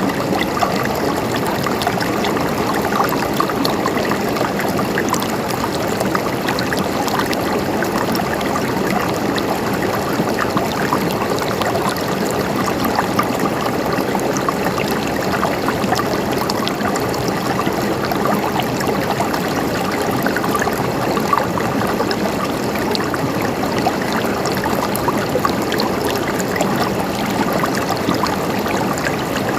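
River water flowing steadily over rocks, a continuous rushing and babbling with small splashes throughout.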